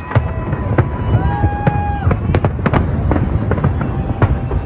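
Aerial fireworks display going off in quick succession: many sharp bangs and crackles over a constant low rumble.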